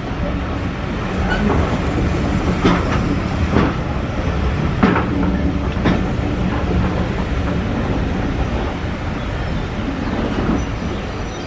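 Train of British Railways Mk1 coaches running along the line: a steady rumble of wheels on track, with about half a dozen sharp clacks as the wheels cross rail joints in the first half.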